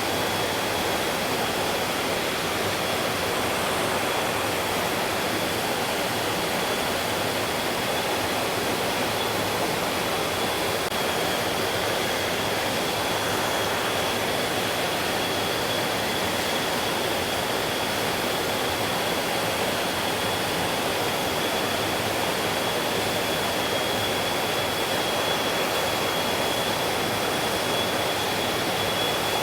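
Mountain stream rushing steadily over rocks, an even unbroken water noise. A thin, steady high tone runs faintly through it.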